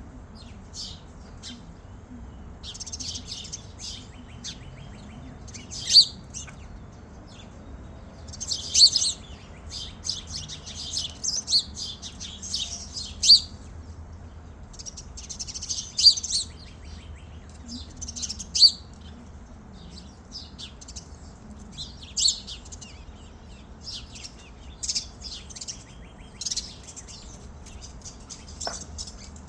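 Small birds chirping and twittering in short, high-pitched bouts that come every few seconds.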